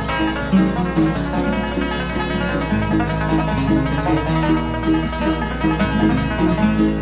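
Bluegrass band playing an instrumental passage, a five-string banjo picking quick rolls over guitar and upright bass in a steady beat.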